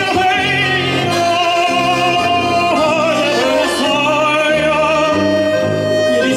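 Song music: a singer holds long notes with a wide vibrato over a band accompaniment with a steady bass line.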